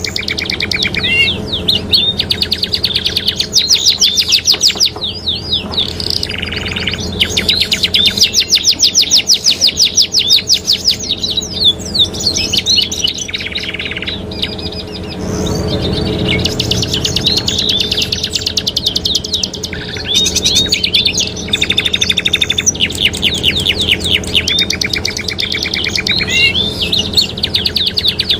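Domestic canaries singing: long, fast trills of rapidly repeated high notes, broken by short gaps and a few buzzy notes, over a steady low hum.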